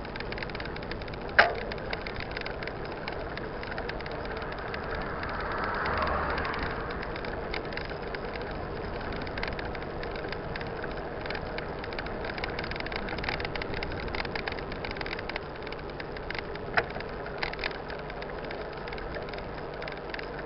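Mountain bike in motion on a dirt trail: steady tyre and rattle noise, with a few sharp knocks from bumps, the loudest about a second and a half in and two more near the end.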